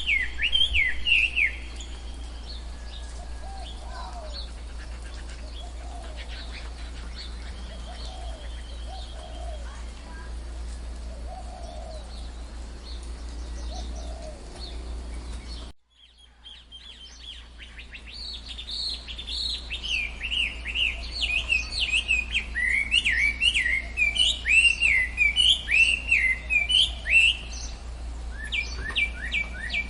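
Tropical forest birdsong: several birds call at once, with quick sweeping chirps, softer low calls every couple of seconds, and a steady low hum beneath. The sound drops out briefly about halfway through and fades back in, followed by a long, loud run of chirps.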